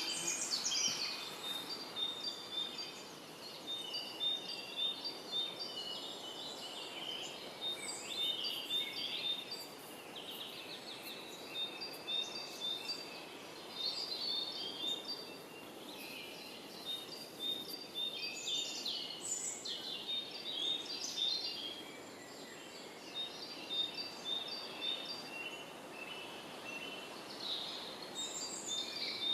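A songbird singing a long, nearly unbroken song of short, high notes repeated quickly in chattering runs, with brief pauses, over a steady background hiss.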